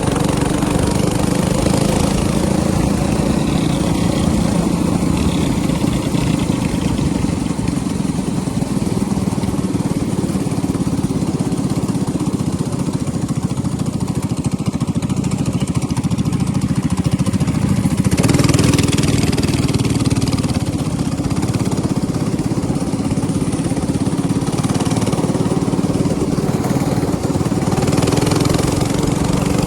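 Small minibike engine running steadily. It swells louder for about two seconds roughly two-thirds of the way through.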